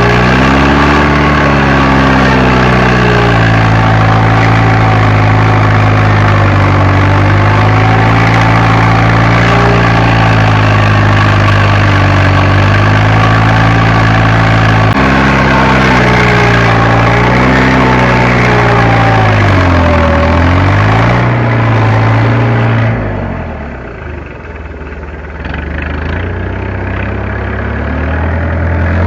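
Fiat Agri tractor's diesel engine working under load, its pitch sagging and recovering several times as the revs drop and pick up. About three quarters of the way through, the engine note falls away and the sound goes quieter, then the engine comes back up near the end.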